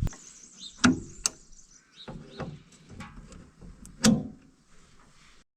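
Sharp metal knocks and clicks as a new gas strut is fitted to a windrower's hinged cover. There are two loud knocks, one about a second in and one about four seconds in, with lighter ticks between.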